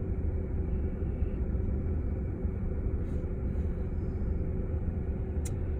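Long freight train rolling past a level crossing: a steady low rumble heard from inside a waiting car, with a short faint click near the end.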